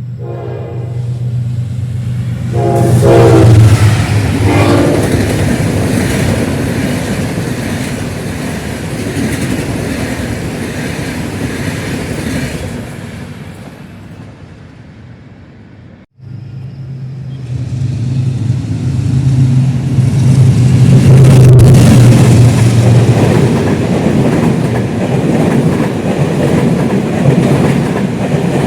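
General Electric diesel locomotive passing with its train, the engine running with a steady low tone under the rumble and clatter of wheels on the rails; its horn sounds a few short blasts in the first five seconds. About halfway through the sound cuts abruptly to another train passing close by, loudest a few seconds later.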